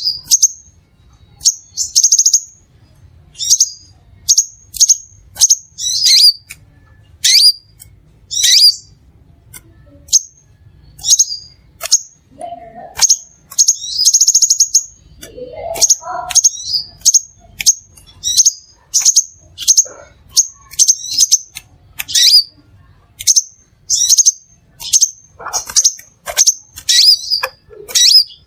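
Crimson sunbird calling over and over: sharp, high chirps about one or two a second, with a couple of longer buzzy trills. This is a lure call for drawing in wild sunbirds.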